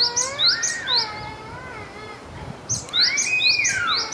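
Japanese tit singing: two runs of quick, sharp rising notes, about two a second, with a pause in between, over lower sliding whistled notes.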